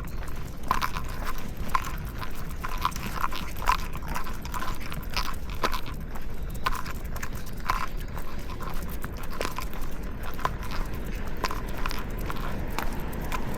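Footsteps on pavement: sharp taps at walking pace, about two a second, over a steady low rumble.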